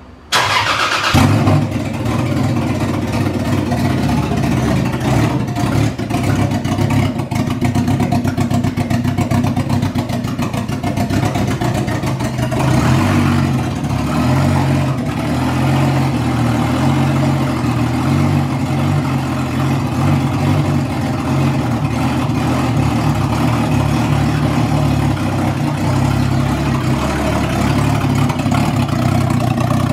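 Turbocharged Toyota 2JZ-GE VVT-i straight-six in a Lexus IS300 cranking briefly and starting about half a second in, then running steadily on its base map with no finished exhaust fitted.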